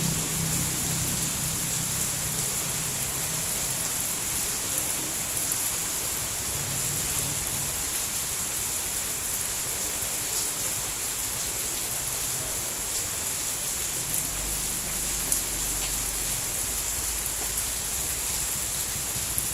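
Steady rain falling: an even hiss with scattered faint drop ticks. A low rumble fades out over the first few seconds.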